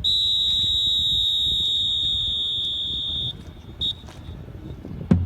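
A long, steady, high-pitched whistle blast lasting about three seconds, then one short blast about half a second later: a drill command signal just before the ceremonial rifle salute is fired.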